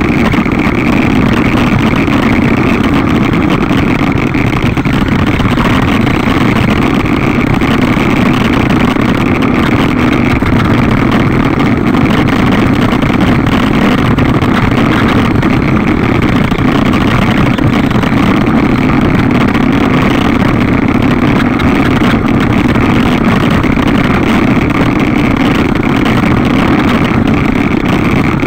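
1/10-scale RC NSR500 motorcycle's motor running at a steady pitch, a constant drone with a higher whine above it.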